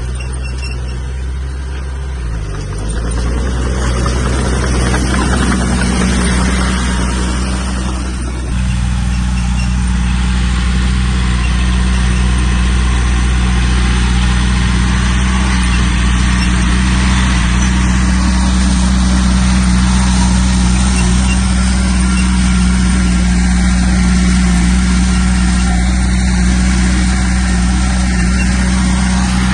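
Diesel engine of heavy earthmoving machinery (bulldozer or dump truck) running steadily. Its pitch dips briefly about two seconds in, it gets louder just after, and the engine note changes about eight seconds in.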